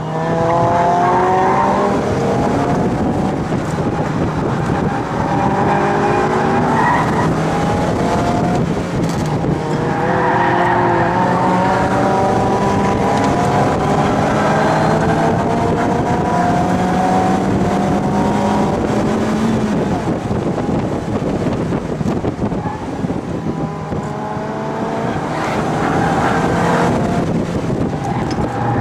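Mazda MX-5 NA's four-cylinder engine revving hard, heard from inside the open-top cabin. The pitch climbs again and again and drops back as the throttle is worked, and the tyres squeal at times as the car slides.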